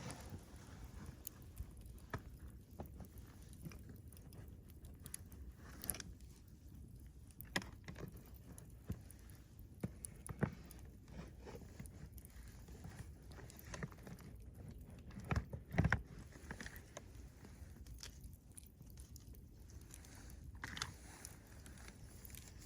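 Wood campfire burning, crackling with irregular sharp pops, with a cluster of louder pops about two thirds of the way through.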